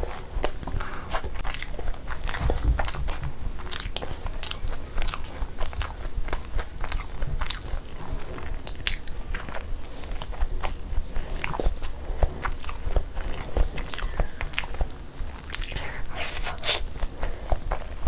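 Close-miked eating of boiled eggs in masala gravy: steady chewing and biting, full of quick irregular wet mouth clicks.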